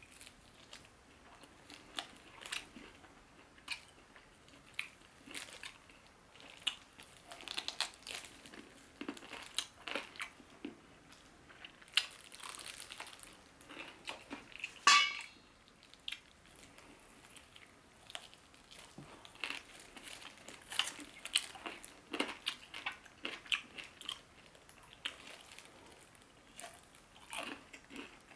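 Close-up chewing and crunching of crispy fried chicken: a steady run of sharp crunches and mouth sounds as the coating is bitten and chewed, with one louder crunch about halfway through.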